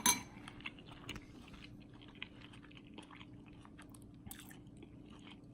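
A person chewing a mouthful of chicken curry close to the microphone: soft, scattered mouth clicks, with a sharper click right at the start.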